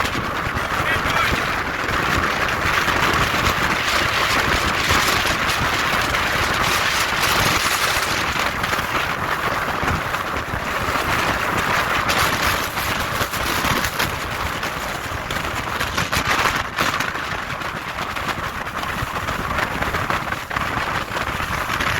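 Strong wind blowing and buffeting the microphone: a steady hiss that swells and dips irregularly.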